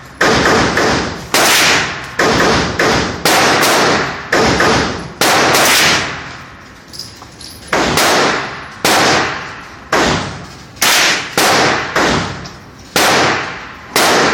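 Gunshots at a shooting range: more than a dozen sharp reports, about one a second, each with an echoing tail, with a pause of a second or two a little past the middle.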